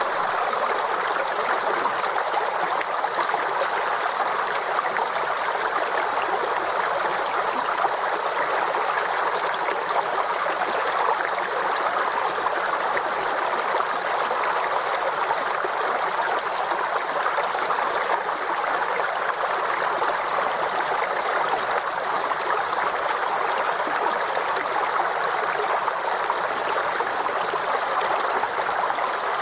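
A forest stream flowing and gurgling over stones, a steady, even rush of water with no change.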